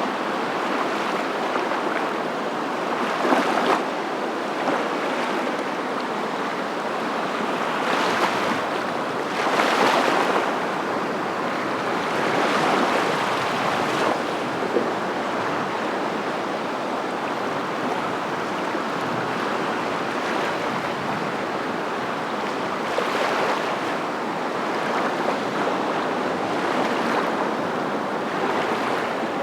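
Continuous rushing water noise, swelling and easing every few seconds like waves breaking.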